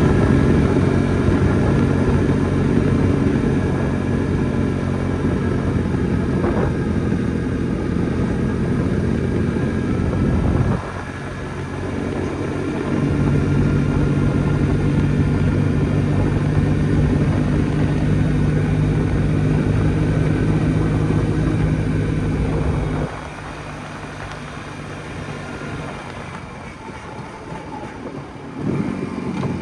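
Jawa 250 type 559's single-cylinder two-stroke engine running under way. The engine eases off about a third of the way in, pulls steadily again, then drops back for several seconds before picking up near the end.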